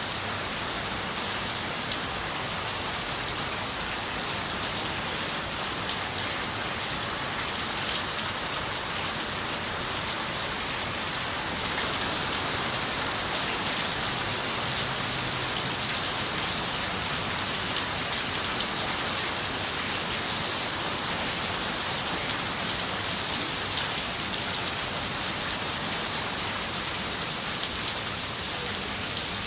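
Steady rain falling on a window, with scattered single drops ticking against the glass. It grows a little heavier about twelve seconds in.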